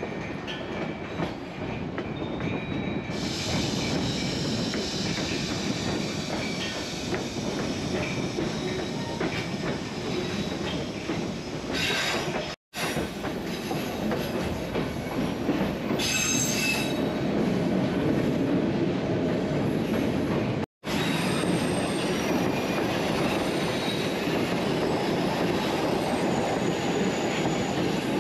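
Narrow-gauge passenger train running, a steady rumble of wheels on rail with high-pitched wheel squeal, loudest about two-thirds of the way through. The sound cuts out abruptly for an instant twice, about 13 and 21 seconds in.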